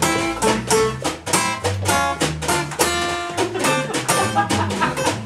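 Live band playing an instrumental break: a guitar solo over strummed, rhythmic accompaniment with bass and percussion.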